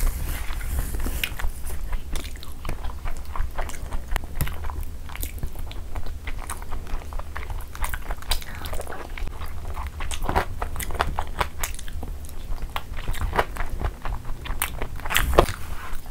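Close-miked eating: wet chewing and smacking of mouthfuls of rice and chicken curry, with fingers squishing and mixing curry-soaked rice on a banana leaf, heard as a dense run of short clicks and crackles over a low steady hum.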